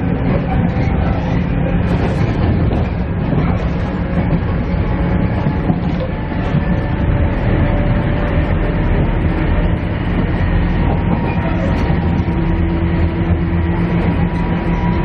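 JR East KiHa E130 diesel railcar under way, heard from inside the car: the steady drone of the diesel engine with a few held tones over the rumble of wheels on rail.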